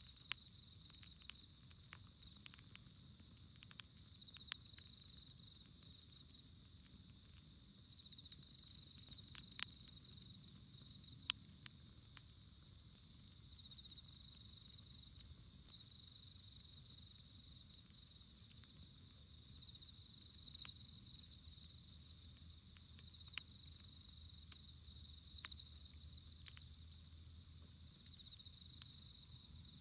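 A steady high-pitched chorus of night insects trilling, with the scattered sharp crackles and pops of a wood campfire, two of them louder about ten and eleven seconds in.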